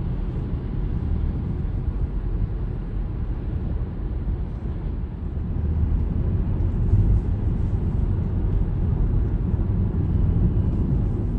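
A car on the move: a steady low rumble of road and engine noise, swelling slightly about halfway through.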